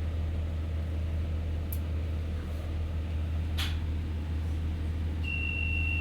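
Class 144 Pacer diesel multiple unit's underfloor diesel engine idling with a steady low drone, with a sharp click about three and a half seconds in and a steady high beep starting about five seconds in.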